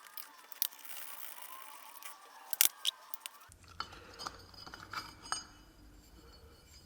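Sharp metallic clicks and light scraping from small steel transmission parts being handled, with a snap ring being worked free of the ZF 6HP26 gearbox's C-brake drum. The loudest click comes about two and a half seconds in, with a smaller one just after, and a few light ticks follow.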